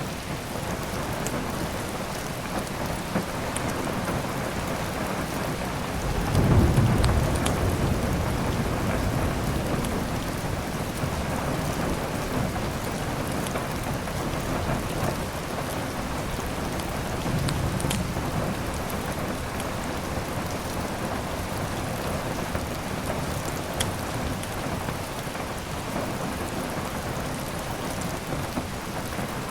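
Steady heavy rain with thunder rumbling low about six seconds in and again around seventeen seconds. A few sharp crackles from a wood fire are heard over it.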